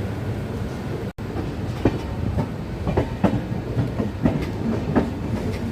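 Indian Railways express passenger coaches rolling along the track, a steady rumble with irregular wheel clacks over rail joints. The sound drops out for an instant about a second in.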